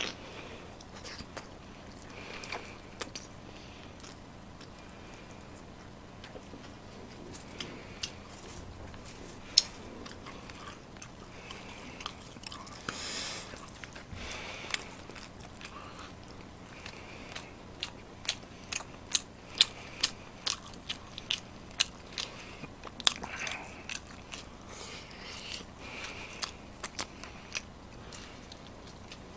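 Close-miked chewing and mouth sounds of a man eating spicy braised chicken, with sharp wet clicks and smacks that come thick and fast in the second half, and one breathy rush near the middle.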